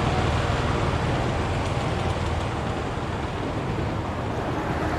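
Steady road traffic noise from a busy street, with a low engine hum underneath.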